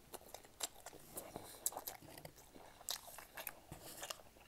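Close-miked chewing of a mouthful of chow mein noodles, with irregular wet mouth clicks and smacks.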